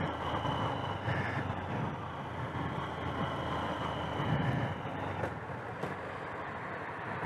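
Motorcycle running steadily while being ridden, its low engine hum mixed with road and wind noise.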